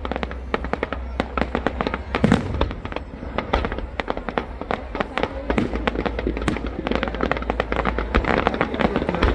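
Aerial fireworks display: a rapid, continuous barrage of bangs and crackles, several a second, with a heavier boom about two seconds in.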